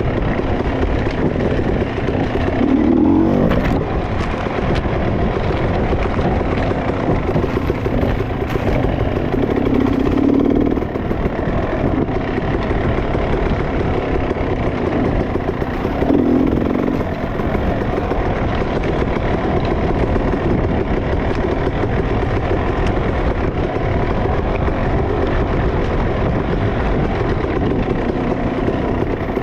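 Dirt bike engine running under riding, with the revs swelling briefly three times.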